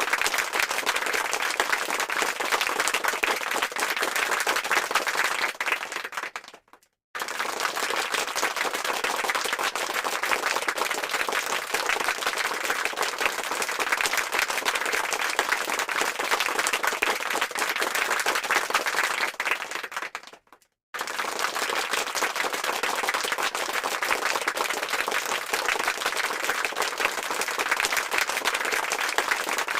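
Crowd applause: many hands clapping in a dense, steady patter. It fades out to a brief silence twice, about six and twenty seconds in, then starts again at full strength each time, as a looped applause sound effect.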